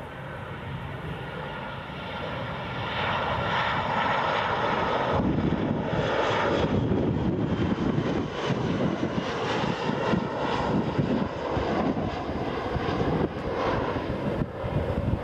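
Boeing 737-800 jet engines, growing louder over the first few seconds with whining tones that slide in pitch, then a loud steady rumble.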